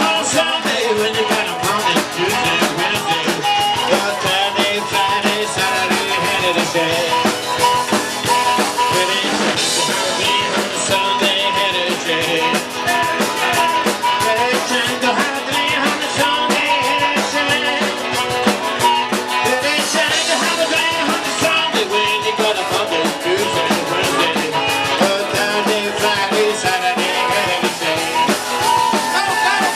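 Live rock and roll band playing a mostly instrumental stretch, with a drum kit beating steadily under guitar.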